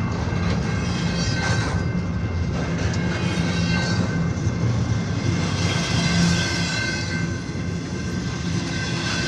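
Train running past: a steady low rumble with a few thin, steady high-pitched tones over it.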